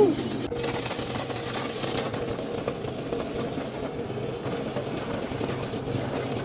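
A machine running steadily: a constant motor hum under an even hiss.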